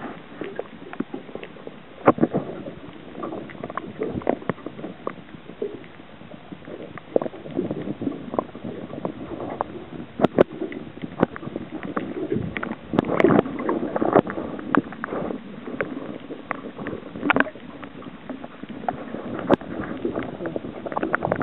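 Water sloshing and gurgling, with irregular sharp clicks and knocks throughout.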